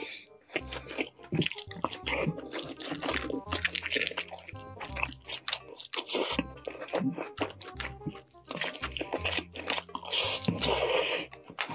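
Close-miked wet chewing, lip-smacking and crunching as roast pork shank is eaten, over background music with a steady low bass.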